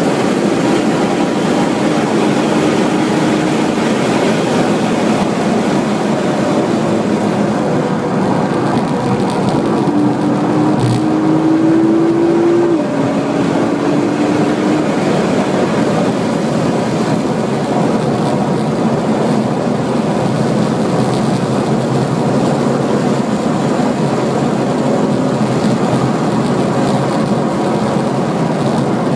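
Nissan GT-R's twin-turbo V6 running hard at speed, heard from inside the cabin under heavy wind and road noise. About ten seconds in, the engine note climbs for a couple of seconds, then drops suddenly with an upshift.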